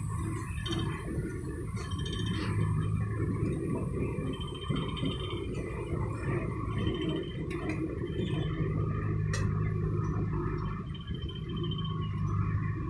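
Passenger train coaches rolling slowly past at close range: a steady low rumble of wheels on the track, with rattling and brief high squeaks every second or two.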